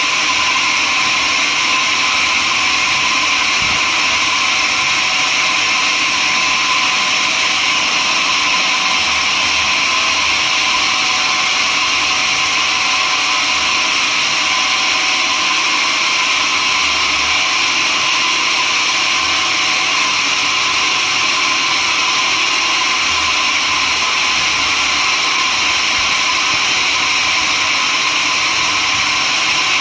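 Sawmill saw running steadily, a continuous loud whine that holds the same pitch and level throughout.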